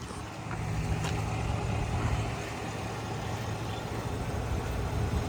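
A motor vehicle's engine running with a steady low rumble that grows louder about half a second in.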